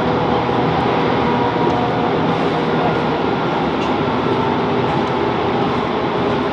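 Class 165 Networker Turbo diesel multiple unit heard from inside the carriage, its diesel engine and wheels running steadily as the train slows towards a station stop.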